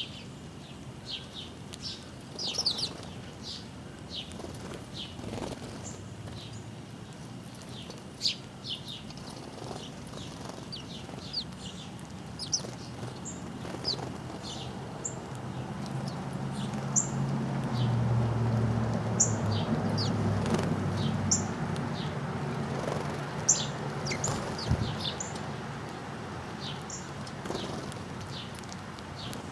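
Small songbirds chirping over and over in short high notes. A low engine hum builds up in the middle and then fades away.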